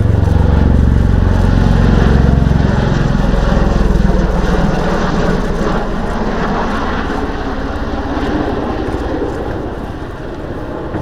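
Bell Boeing V-22 Osprey tiltrotor flying by, its large proprotors beating rhythmically over the engine noise, deep tones dropping in pitch early on and the sound getting quieter in the second half as it moves away.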